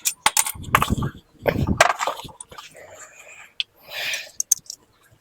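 Loose metal engine parts and hand tools clinking and knocking during an engine strip-down: a run of sharp clicks and a couple of heavier knocks in the first two seconds, then a short scraping rush about four seconds in.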